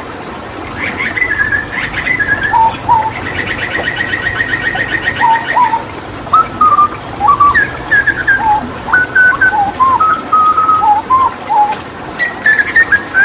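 Hooded butcherbird singing loud, clear whistled notes and short phrases, with a fast trill of rapidly repeated notes lasting a couple of seconds. Running water makes a steady hiss behind it.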